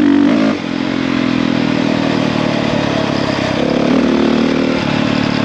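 450cc dirt bike engine running under way; the throttle eases off about half a second in and it carries on at lower, steady revs.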